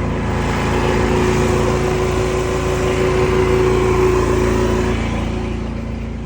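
An engine running steadily with a droning hum, easing off a little after about five seconds.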